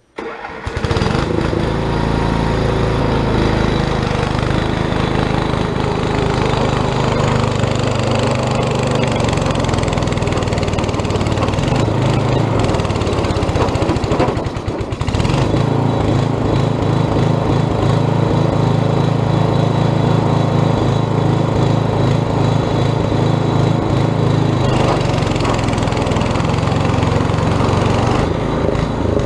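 The Quadractor's 8 hp small engine running steadily, coming in abruptly at the start. About halfway through it dips briefly in level and pitch, then picks back up.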